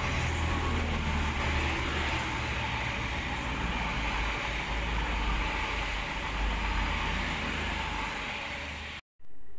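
A CrossCountry diesel passenger train running past along the platform: a steady low engine drone under the rushing of wheels on rail. About nine seconds in the sound cuts out for a moment, then comes back and begins to fade as the last car passes.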